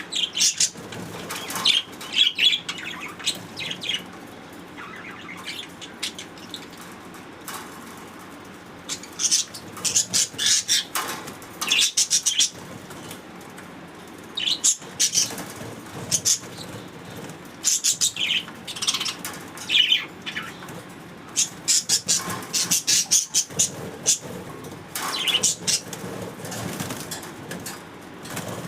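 Pet budgerigars chirping and chattering in bouts of rapid high chirps, with quieter stretches between.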